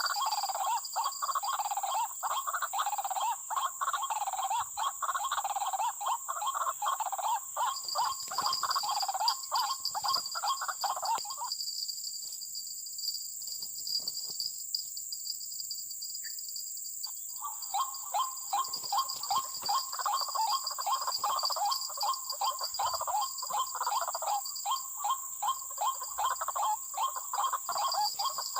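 White-breasted waterhen calls, a rapidly repeated croaking "ruak-ruak" chorus like the lure call played to draw the birds to the snare. The calling breaks off for about five seconds midway, then starts again, over a steady high-pitched whine.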